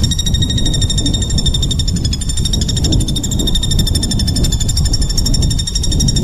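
A small songbird's rapid, buzzy trill held at a steady high pitch without a break, the dense harsh 'tembakan' song used to tutor competition songbirds, over a low rumbling background noise.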